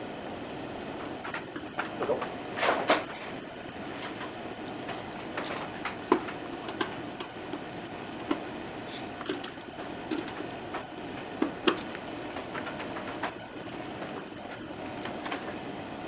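Scattered clicks and light knocks of hands and a tool working wires inside a sawmill's metal electrical control box, over a steady hum.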